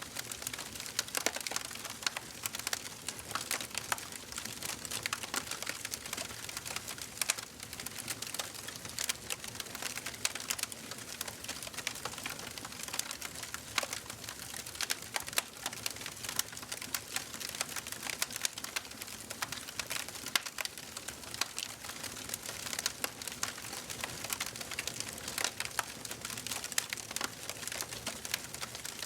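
Wood fire burning in a fireplace, crackling and popping in a dense, irregular stream of small snaps over a low steady hiss.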